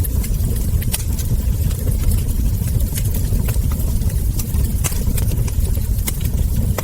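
Wood fire burning with a steady low rumble, broken by irregular sharp crackles and pops from the logs and embers.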